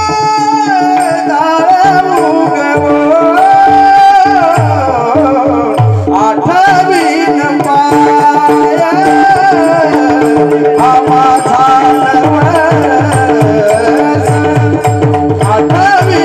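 Devotional Marathi bhajan singing: a voice sings long, ornamented phrases that wind up and down in pitch, over a steady held drone and a hand drum keeping time.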